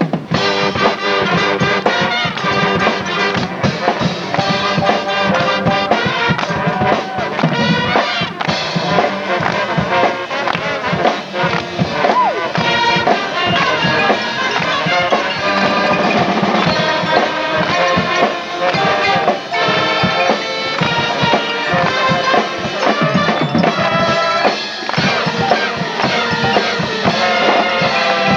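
Marching band playing, with brass sustaining chords and melody lines over drums.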